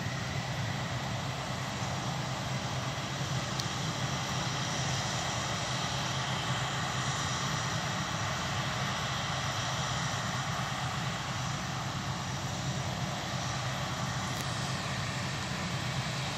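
Steady drone of harvest machinery engines working the field, an unbroken hum with no break or change.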